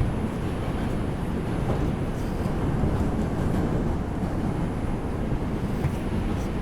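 R142 subway car running between stations, heard from inside the car: a steady rumble of wheels on rail.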